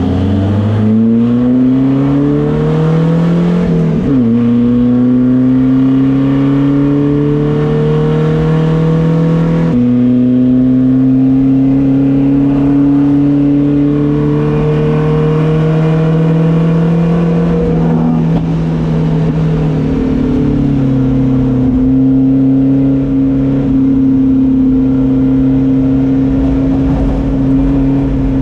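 Race car engine accelerating hard, pitch climbing and then dropping sharply at a gear change about four seconds in. It then runs at high, fairly steady revs, with brief dips in pitch as the driver lifts or shifts.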